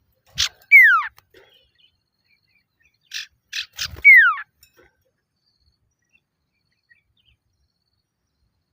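Male common iora calling: two phrases about three and a half seconds apart, each a short rasping chatter of one to three notes followed by a loud down-slurred whistle.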